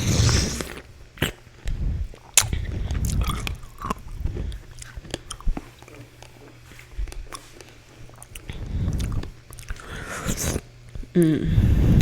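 Close-miked chewing of a mouthful of fruit cereal with pomegranate seeds: irregular wet mouth sounds and small sharp clicks, pausing and resuming.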